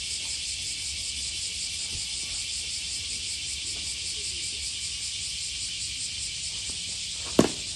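A steady, high, pulsing insect drone, typical of a summer cicada chorus, with a single sharp crack near the end.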